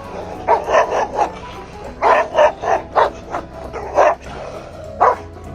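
A dog barking in a run of about a dozen short barks, bunched in quick groups, with music underneath.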